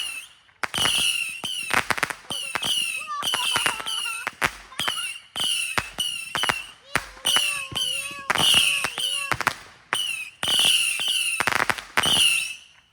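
A firework cake firing a rapid string of whistling shots, about two a second: each a short high whistle ending in a sharp crack.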